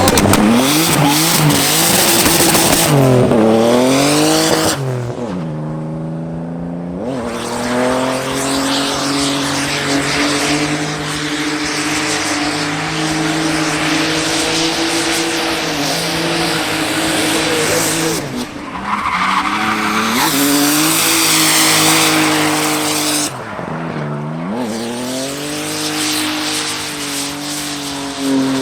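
A car's engine held at high revs while its tyres squeal and spin in a burnout or drift. Twice the revs dip and climb back, and the engine note otherwise holds steady under the tyre noise.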